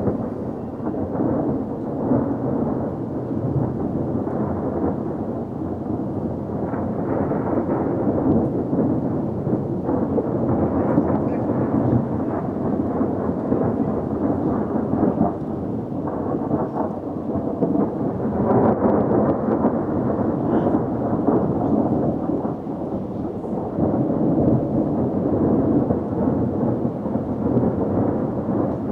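Thunderstorm: rolling thunder rumbling almost without a break, swelling and fading several times, over steady rain.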